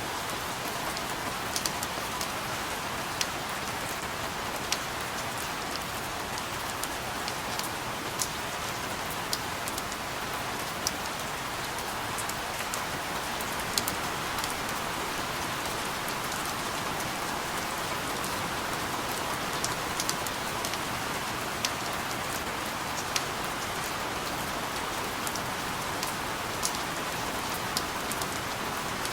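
Steady rain falling, an even hiss with individual drops ticking sharply on a hard surface every second or so.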